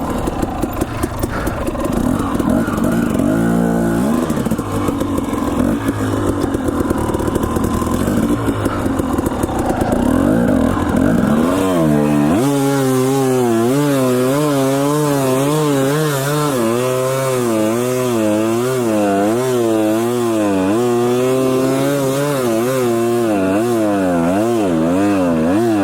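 Dirt bike engine running as the bike is ridden along a trail, revs changing constantly. About halfway through the revs climb and the engine note then rises and falls about once a second with the throttle.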